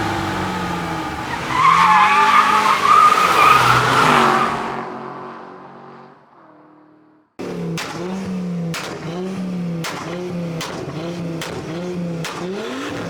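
Car engine running hard with a wavering tyre squeal, typical of a car drifting or skidding, dying away over a few seconds. After a short silence, an engine is revved up and down in quick repeated rises, about one a second, with sharp cracks along the way.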